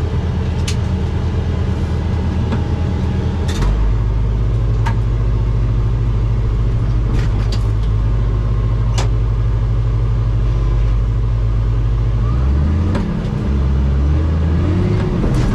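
Heavy-equipment diesel engine running steadily. About three and a half seconds in its note drops and grows stronger, as under load, and near the end the pitch wavers up and down. Occasional sharp clicks or clanks cut across it.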